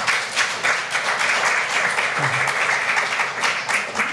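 Small audience applauding, a dense patter of many hands clapping.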